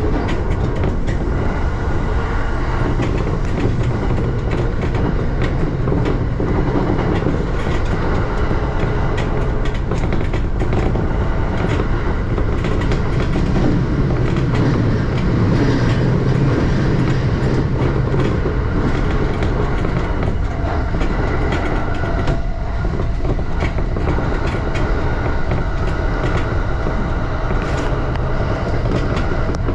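JR E235 series electric train running at steady speed, heard from on board: a continuous rumble of wheels on rail with irregular clicks from the track.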